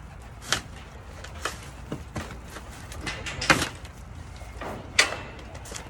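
Pigeon loft door being handled: a series of sharp knocks and clatters, the loudest about three and a half seconds in and another strong one at about five seconds.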